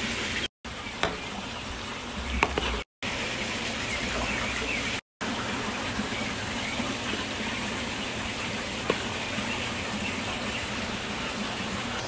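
Saag paneer sizzling in a hot pan: a steady frying hiss with a few light clicks, broken by three short silent gaps.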